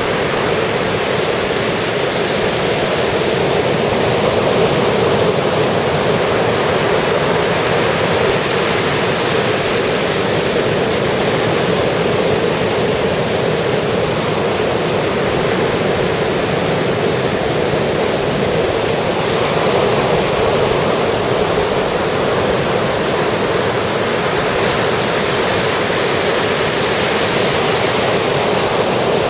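Ocean surf washing onto the beach in a loud, steady, continuous rush, with no single wave crash standing out.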